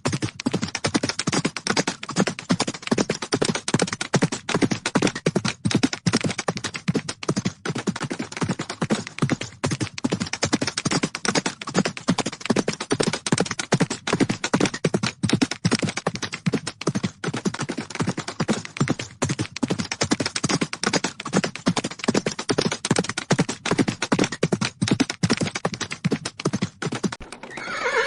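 Horses galloping, with a fast, unbroken run of hoofbeats.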